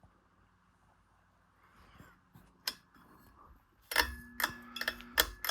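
Glass and metal parts of a ceiling fan's light kit being handled and clinking. A few faint clicks come first, then from about four seconds in a quick run of sharp clinks with a short ringing tone.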